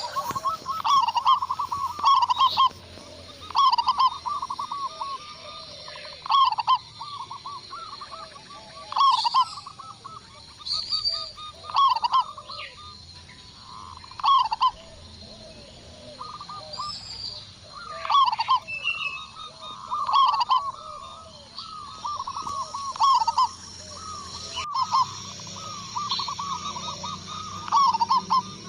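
Zebra doves (perkutut) cooing: repeated bursts of rapid staccato coos, a phrase every second or two, some running into each other.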